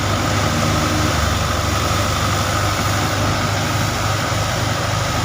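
Tractor engine running steadily at a constant speed under wheat-harvest machinery, with a steady high whine above the engine note.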